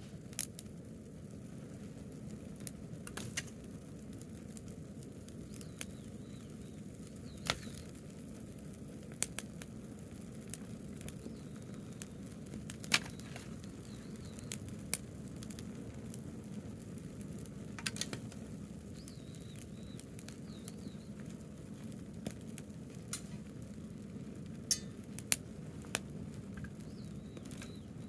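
Wood fire of burning branches crackling, with sharp pops at irregular intervals over a steady low rumble.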